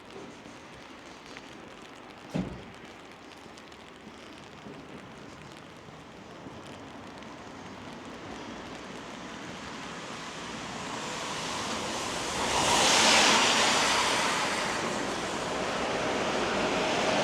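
Rain with a short thump a couple of seconds in, then the tyre hiss of a vehicle passing on the wet road. The hiss builds slowly, is loudest about thirteen seconds in, and fades a little before rising again near the end.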